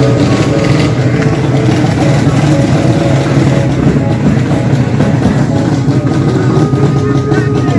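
Drag racing motorcycle engine running loudly and steadily.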